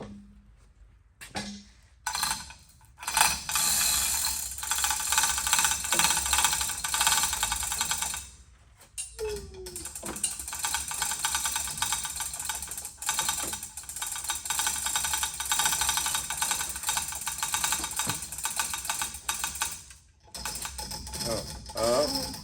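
Chain hoist working an engine block: its chain and ratchet rattle and click rapidly in two long runs, with a short pause between them.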